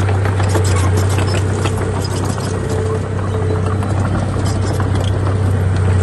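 Heavy diesel earthmoving machinery running steadily, a deep engine hum with scattered clanks and knocks over it.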